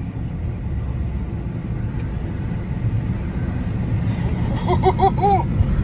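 Steady road and engine rumble inside a moving vehicle's cabin, growing slightly louder. Near the end, four short pitched sounds come in quick succession, the last a little longer.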